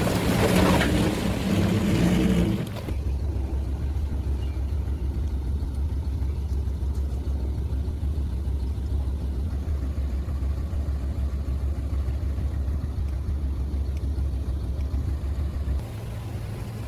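Diesel engine of heavy earthmoving machinery running. For about three seconds it is louder and fuller, then it changes abruptly to a steady low rumble.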